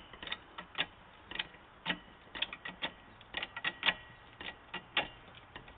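Hydraulic floor jack being pumped by its handle to lift the car: a run of sharp metallic clicks and clacks, a few a second, in uneven clusters.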